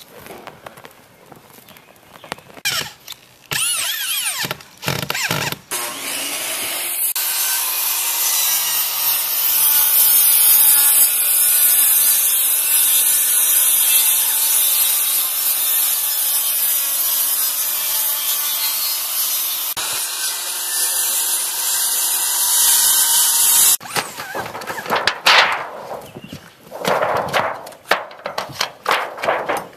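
A power saw cutting through wood, running steadily for about seventeen seconds and stopping abruptly. It is preceded by scattered brief knocks and handling noises.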